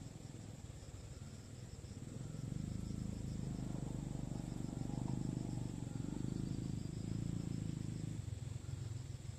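Insects chirping: a steady high buzz with rows of quick pulsed chirps above it. Under it a low rumble swells from about two seconds in and drops back near the end, the loudest sound in the stretch.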